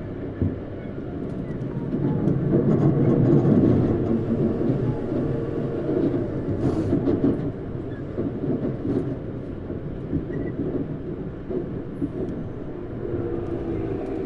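Interior running noise of a Tokyu 9000 series electric train motor car: a steady rumble of wheels on rail, swelling loudest a few seconds in. Near the end a faint tonal whine from the Hitachi GTO-VVVF traction inverter begins to come in.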